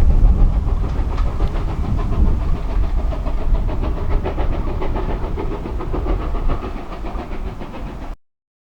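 A heritage train running, a steady low rumble with rapid beats, until the sound cuts off abruptly about eight seconds in.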